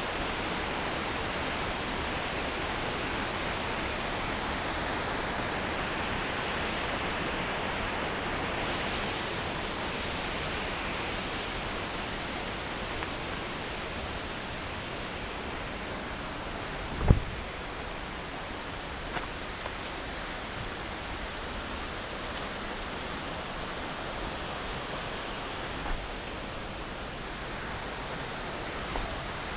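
Steady rushing of river water over rocks. A single sharp knock about seventeen seconds in, with a few faint clicks later.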